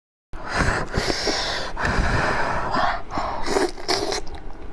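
A person's breathy, unvoiced vocal sounds in several long stretches of about half a second to a second and a half each.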